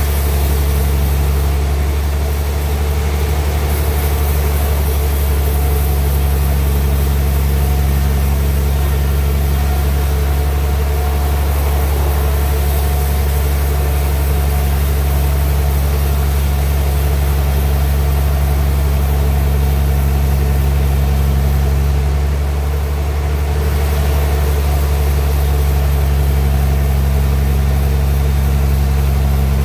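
Homemade sawmill's engine running steadily with a low, even hum, easing briefly about two-thirds of the way through.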